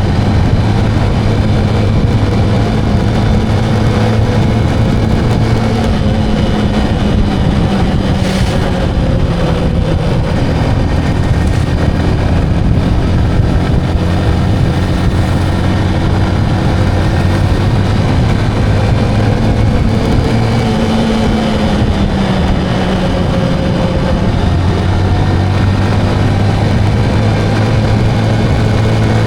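Motorcycle engine running steadily while riding, with a steady rush of wind and road noise. The engine note sags and then settles back a little past the middle.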